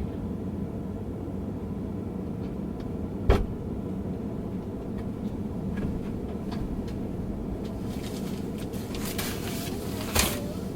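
Steady low road and engine rumble inside a moving car, with a sharp knock about three seconds in and another near the end.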